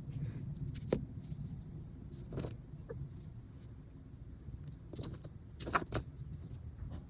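Accordion reed plates and small tools being handled on a workbench while new leather valves are glued on: a few light clicks and taps, over a low steady rumble.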